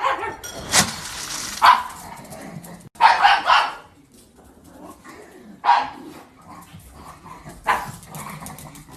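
Dog barking repeatedly: several loud, separate barks a second or two apart.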